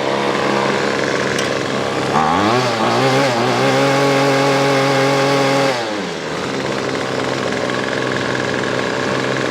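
Weedeater Featherlite SST25 string trimmer's 25cc two-stroke engine idling, then revved up about two seconds in. It holds high revs for a couple of seconds and drops back to idle around six seconds. It runs strongly on a new carburetor with the low-speed screw freshly tuned.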